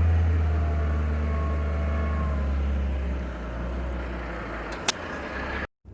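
Heavy diesel truck engine running with a deep low rumble that eases off about three seconds in. A single sharp click comes near the end, followed by a brief cut-out.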